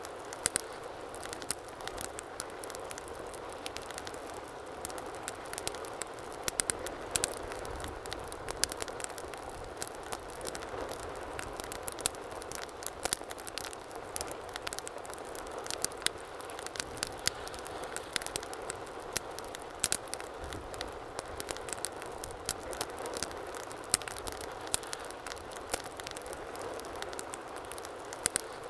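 Wood fire crackling and popping: a steady low hiss of burning with frequent sharp, irregular pops and snaps.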